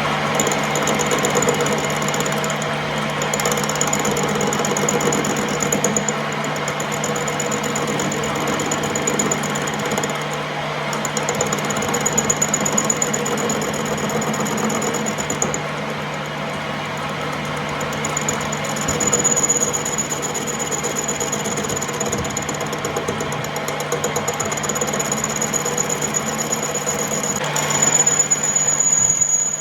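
Metalworking machine tool running steadily with a low hum and dense mechanical noise. A thin high whine starts and stops several times over it.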